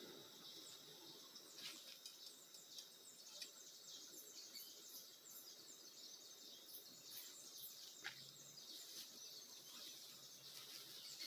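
Faint woodland ambience: many small birds chirping in short, high calls, with a couple of faint clicks.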